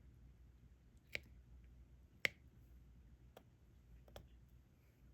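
Four sharp, light clicks spaced about a second apart, the loudest a little past two seconds in: small resin diamond-painting drills being picked up and set onto the adhesive canvas with a plastic stylus.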